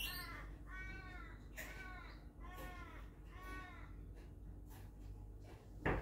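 A bird calling a run of short, arched caws, about one a second, that stops about four seconds in. Just before the end comes a loud, brief whoosh of wings as a sulphur-crested cockatoo flaps down close by.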